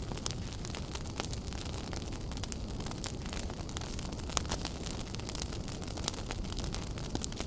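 Wood fire burning in a fireplace: a steady low rumble of flames with continual crackling and a few sharper pops.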